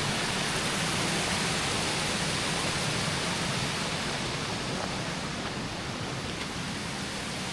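Waterfall rushing, a steady hiss of falling water that eases a little in loudness in the second half.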